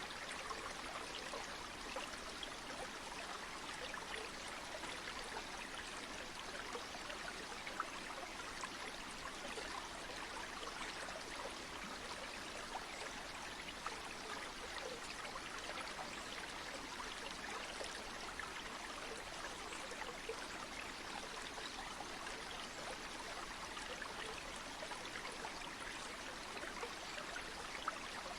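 Flowing stream or river water rushing steadily, an even noise with a fine bubbling texture and no pauses.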